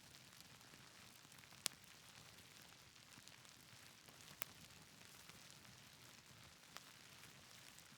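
Faint steady rain hiss with a few sharp pops from a crackling wood fire, the loudest a little under two seconds in and two softer ones later.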